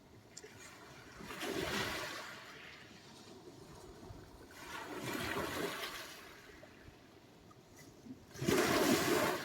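Sea waves washing up on the shore: three surges of rushing, splashing water a few seconds apart, the last the loudest.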